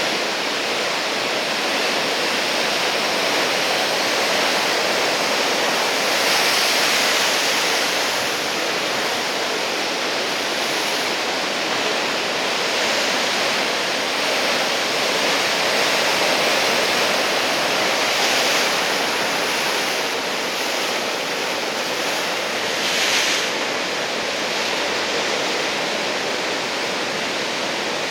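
Heavy typhoon-swell surf breaking and washing ashore, a steady rush of water noise that swells louder a few times, around 6 and 16 seconds in.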